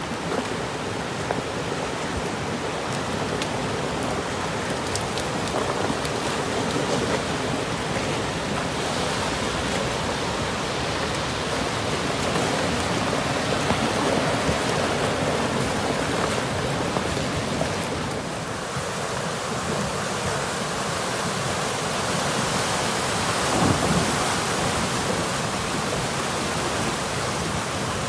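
Drifting ice moving along the shore, a steady hissing rush like heavy rain, with a soft low thump about three-quarters of the way through.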